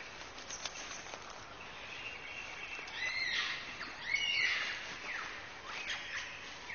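Forest birdsong: assorted whistles, chirps and quick downward-sweeping notes, with two louder phrases about three and four seconds in.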